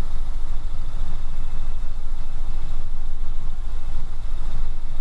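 Robinson R66 turbine helicopter in cruise flight: steady rotor and engine noise heard from inside the cabin, strongest in the low end and unchanging.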